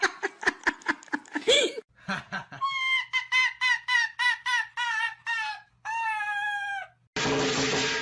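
A run of short, evenly pitched clucks, about four a second, ending in one longer call that falls in pitch, like a hen's cackle. Before it comes the end of another clip with music and a voice.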